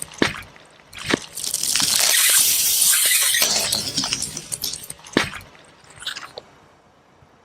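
Things being crushed under a car tyre: several sharp pops and cracks, with a long crackling, hissing crunch in between. It dies away about six seconds in.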